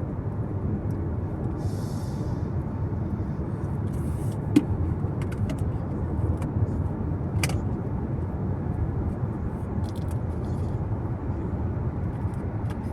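Steady road noise of a car on the move: a low rumble of tyres and engine. Scattered faint clicks run through it, with one brief sharp knock about four and a half seconds in.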